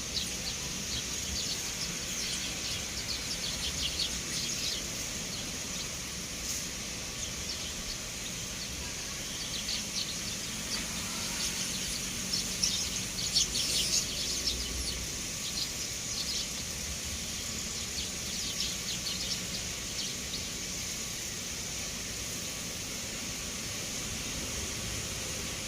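Sparrows chirping in busy flurries of short, high chirps that come and go, over a steady high hiss.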